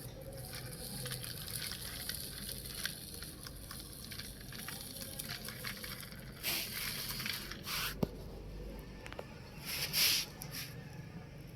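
Small toy vehicles rolling over gravelly ground: a steady run of small crackles and clicks, with three louder scraping rushes in the second half.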